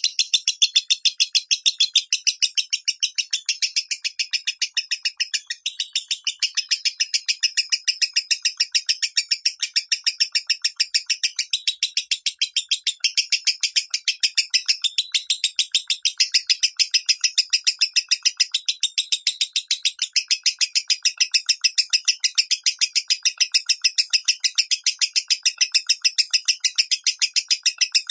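Lovebird singing the long, unbroken run of rapid chirps that keepers call the 'minor' voice, about two to three chirps a second without a pause.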